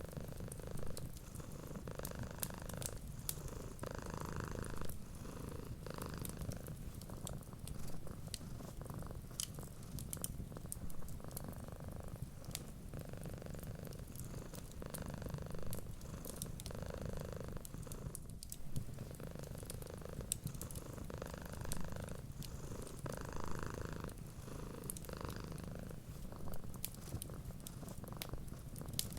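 Domestic cat purring steadily, swelling and easing with each breath about every two seconds. Scattered sharp crackles and pops from a wood fire are heard throughout.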